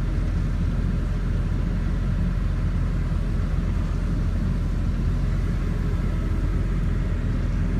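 An engine running steadily, a continuous low rumble that does not change in pitch or level.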